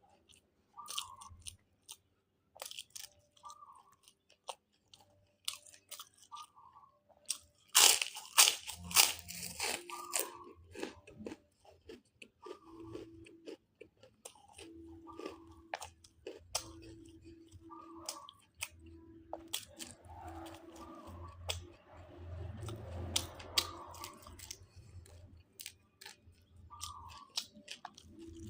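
Close-up mouth sounds of a person chewing and crunching grouper: scattered wet clicks and smacks, with a louder run of crunching about eight seconds in.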